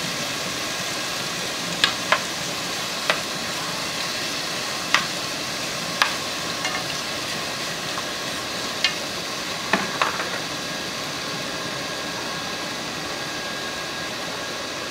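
Jerk-seasoned shrimp sizzling steadily in oil in a nonstick frying pan, with sharp clicks of a metal spoon striking the pan as the shrimp are turned, several times in the first ten seconds.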